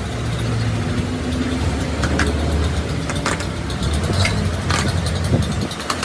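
An engine running steadily with a low hum, slightly changing pitch now and then, with scattered sharp clicks and taps over it.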